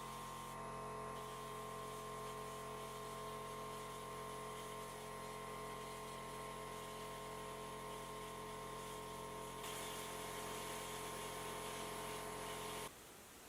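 A steady hum of several fixed tones that stops abruptly about a second before the end.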